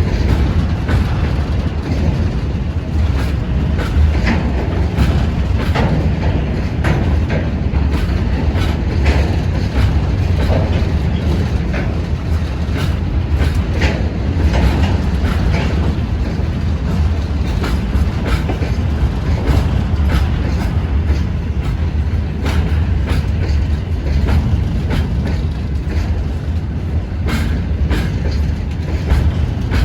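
Freight train rolling past at steady speed: continuous low running noise of the wagons, with irregular clacks of wheels over the rail joints.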